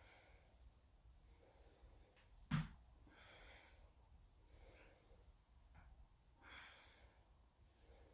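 Faint breathing of a person holding a dead bug core exercise on the floor, with a few exhales. There is one soft thump about two and a half seconds in, a heel tapping the floor as the leg goes down.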